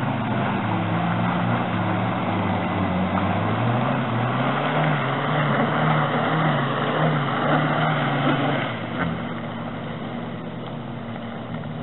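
Off-road vehicle engines working under load as a Daihatsu Terios tows a stuck SUV out of mud on a strap, the engine pitch rising and falling with the throttle. The sound gets quieter about nine seconds in as the vehicles move off down the track.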